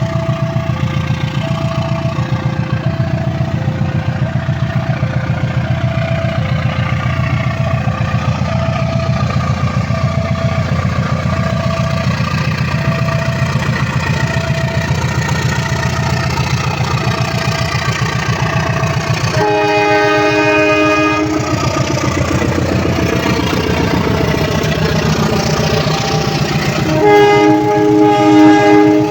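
Babaranjang coal train hauled by a CC 204 diesel locomotive, running with a steady low rumble. An alternating two-note warning tone sounds over it through the first two-thirds. The locomotive's horn blows twice, about 20 seconds in and again near the end, the second blast louder.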